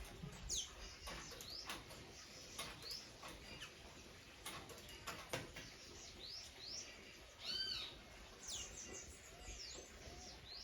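Several birds calling in a tree: scattered short, quick chirps, with one louder arched call a little past halfway and soft low notes toward the end.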